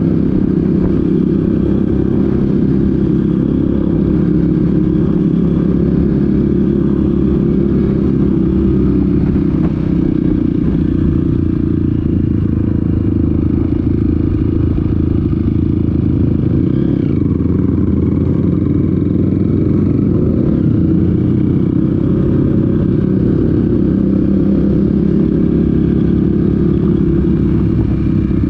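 Off-road motorcycle engine running steadily while riding, with only small changes in speed.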